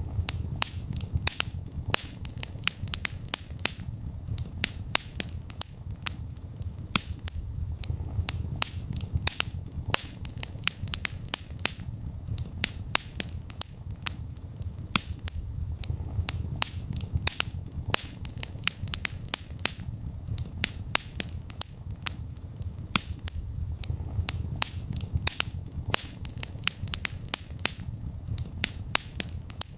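Wood fire crackling: many sharp irregular pops and snaps, several a second, over a steady low rumble of the flames.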